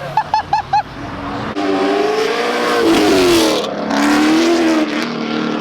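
Car engine blipped four times in quick succession, then revving hard under acceleration, its pitch climbing and dropping twice.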